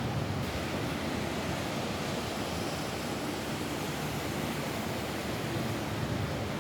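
Steady rain falling on a roof, an even, unbroken wash of noise with no distinct drops or thunder.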